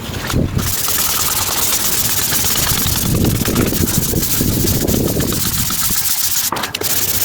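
240-grit wet-and-dry sandpaper rubbed by hand over a plastic headlight lens, wet sanding in rapid back-and-forth strokes, with a short pause near the end.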